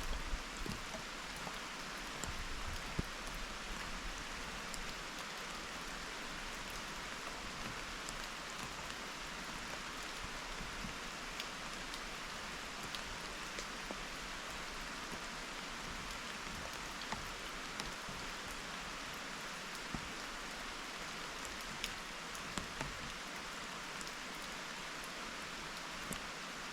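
Steady rain falling, an even hiss with scattered individual drops ticking out above it.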